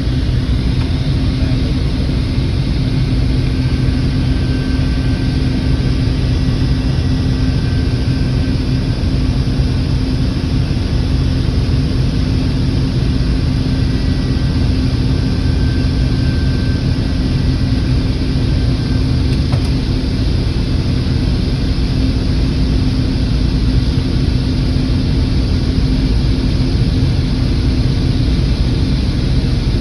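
Combine harvester running steadily at working speed, a constant loud engine and machinery drone with a steady low hum.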